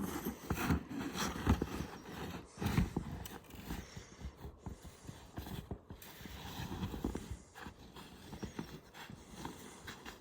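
Footsteps crunching through a crust of wet snow, in an uneven run of steps.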